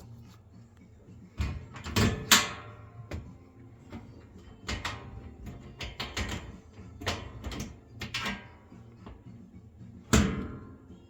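A series of knocks and clatters with short ringing tails, the loudest about two seconds in and again near the end: parts of a kitchen ventilation fan being handled and taken apart for washing.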